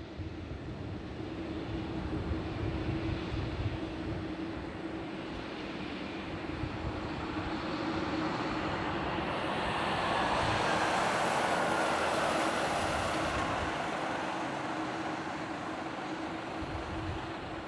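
Airbus A321-200 jet airliner on final approach passing by: its engine noise grows to a peak about ten to thirteen seconds in, with a whine falling in pitch as it goes past, then eases off a little. A low rumble runs underneath.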